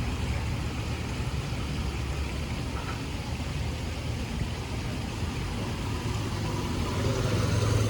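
Street traffic: a steady low engine rumble over a general road hiss, growing louder near the end as a vehicle comes closer.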